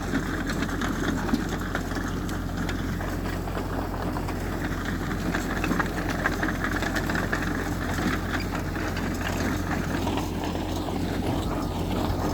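Heavy earthmoving machine's diesel engine running steadily, with a constant low hum and scattered light clanks.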